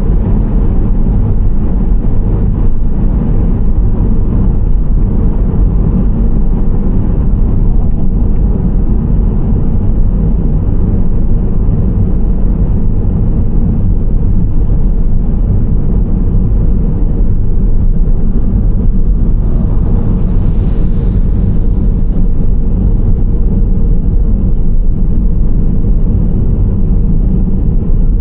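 Steady low road and engine rumble of a Nissan Serena C25 minivan driving at a constant pace. About two-thirds of the way through there is a brief swell of higher hiss.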